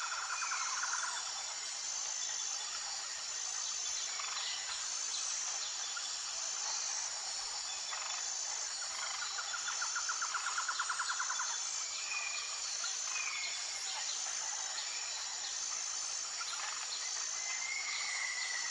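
Natural outdoor ambience: a steady high insect drone with an even pulsing, overlaid by birds calling with short whistled notes. A fast buzzy trill comes three times, about nine seconds apart.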